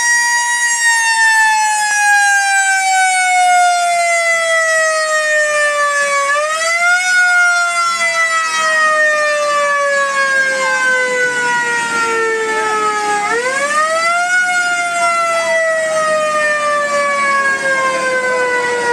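Siren sounding a long wail whose pitch falls slowly over several seconds. About six seconds in and again about thirteen seconds in, it is pushed back up with a quick short rise and then winds down again.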